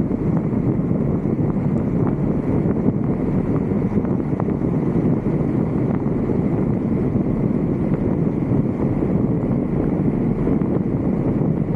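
Steady low rumble of wind buffeting the microphone of a roof-mounted 360 camera on a vehicle.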